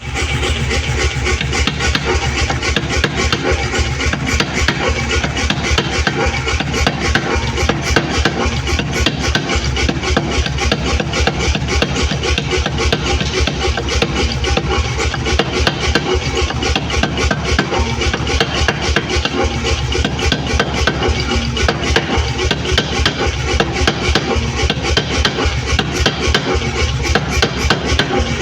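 Steel being hammered in a fast, even rhythm of about four or five blows a second, kept up without a break, over a steady low hum.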